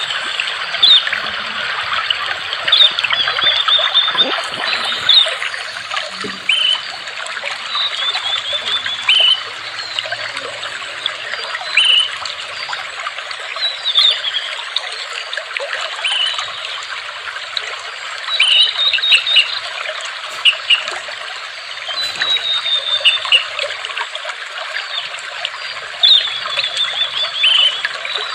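Water trickling steadily, with a small bird giving short high chirps again and again, some in quick runs of several notes.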